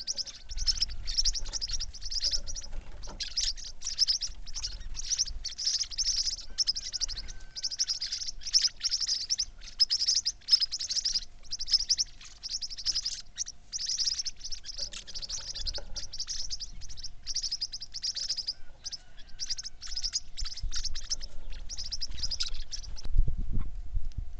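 Small birds chirping in quick, high-pitched runs of notes, almost without pause, stopping about a second before the end. A faint steady hum sits underneath.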